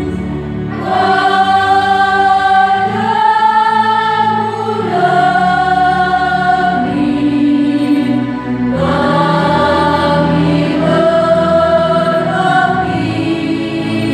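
Choir singing slow phrases of long-held notes, each phrase about two seconds, over a steady low sustained part.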